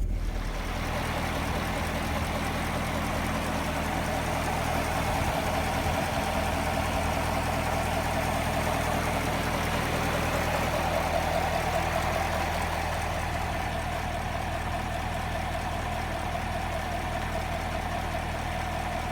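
2017 Chevrolet Camaro 2SS's 6.2-litre V8 running steadily through its stock exhaust, with no revving.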